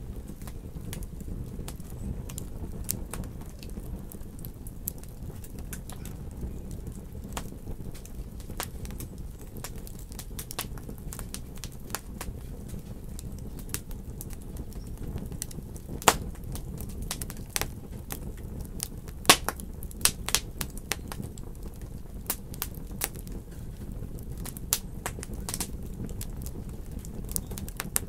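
Wood fire burning in a fireplace: irregular sharp crackles and pops over a steady low rumble of the flames, with a few louder pops in the second half.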